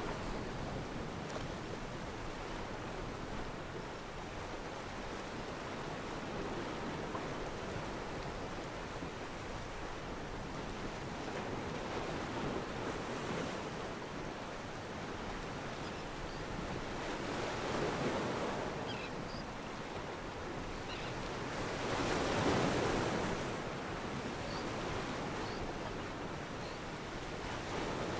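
Steady outdoor rushing noise of wind and water. It swells louder twice in the second half, and a few faint, short, high chirps come through.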